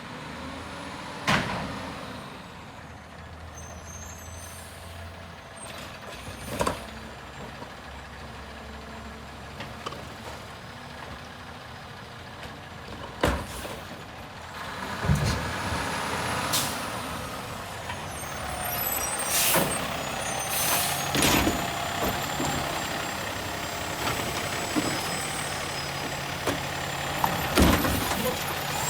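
Garbage truck working its route: the engine runs steadily, broken by a series of sharp knocks and bangs. From about halfway it gets louder and busier, with whining tones and hissing like air brakes.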